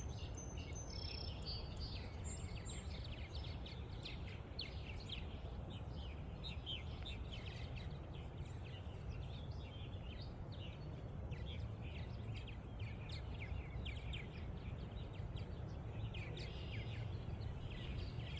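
A colony of purple martins chirping and chattering continuously, many short calls overlapping, over a steady low rumble.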